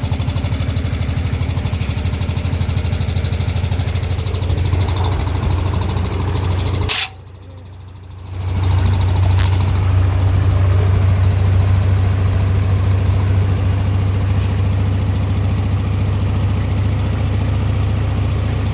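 Washing machine running with a loud, steady low hum. About seven seconds in it cuts out with a click, then starts again after about a second and a half.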